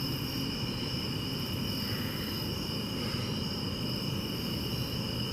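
Steady chorus of night insects such as crickets, holding two constant high pitches, over a low continuous rumble.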